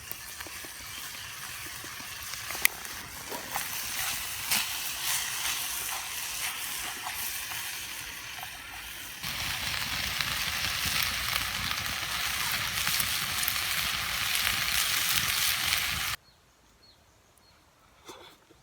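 Chicken and leeks sizzling as they stir-fry in a pan, with scattered small pops and crackles. The sizzle grows louder about nine seconds in, then stops abruptly.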